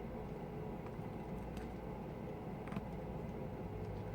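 Steady low background hum with a couple of faint, light clicks from small tools and parts being handled during an iPhone repair.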